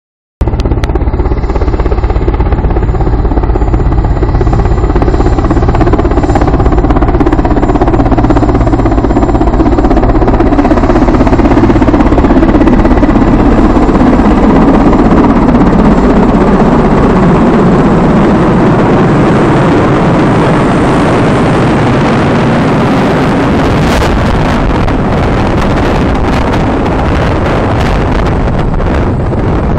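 Helicopter landing close by: loud, steady rotor and engine noise whose pitch sinks a little midway. Rotor downwash buffets the microphone, strongest in the last third.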